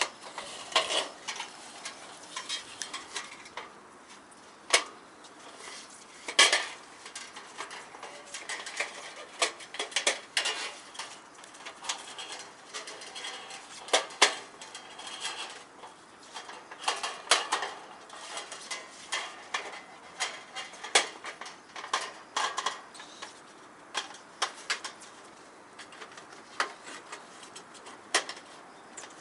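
Metal chimney pipe sections of a compact wood stove being handled and fitted together: irregular clinks, taps and light scrapes, sometimes in quick clusters, with a few sharper knocks.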